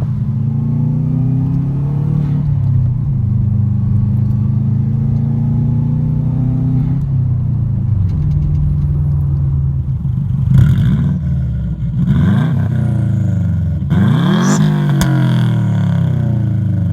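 2004 Subaru WRX's turbocharged flat-four running through a cheap eBay aftermarket exhaust, accelerating through the gears: the engine note climbs, drops at a shift about two seconds in, and climbs again to a second shift around seven seconds. Later the revs rise and fall sharply several times in quick blips.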